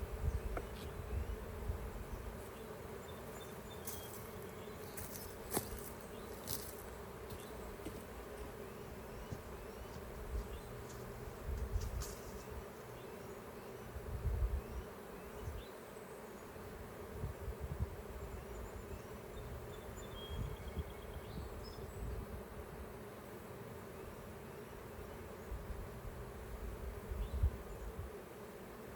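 Honeybees buzzing steadily around an opened hive in a continuous hum, with a few short clicks and occasional low thumps.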